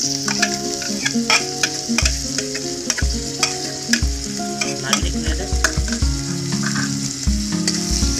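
Sliced onions sizzling as they fry in hot oil in a wok, turned with a spatula, under background music with a beat.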